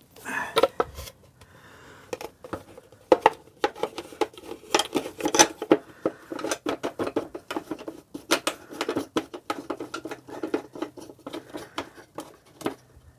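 Rapid, irregular light clicking and tapping of hand tools and small parts being handled, with several clicks a second at times.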